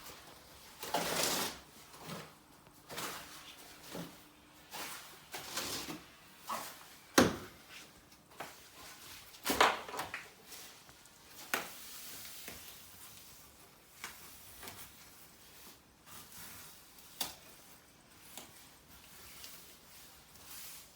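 Scattered knocks, clicks and scraping sounds of hand work, with a sharp knock about seven seconds in and another a couple of seconds later.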